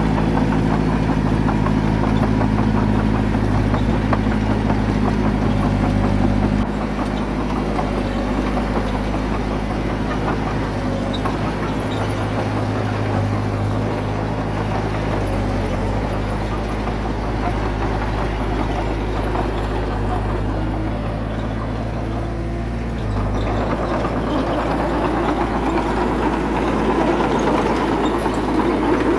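Diesel engine of heavy earthmoving equipment running steadily. It eases off a little about seven seconds in, then grows louder and noisier again around 23 seconds.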